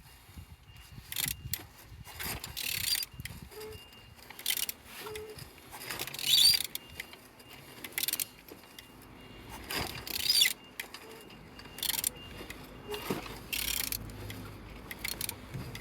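BMW N47D20A 2.0-litre four-cylinder diesel engine being turned over by hand: a series of irregular clicking, scraping mechanical strokes every one to two seconds. The engine turns freely, the sign that it is not seized.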